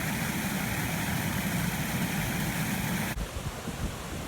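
Waterfall rushing steadily, cutting off abruptly about three seconds in to quieter running water.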